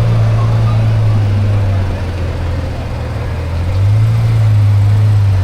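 A vehicle engine idling: a steady low hum that drops a little in pitch about two seconds in and comes back up near four seconds.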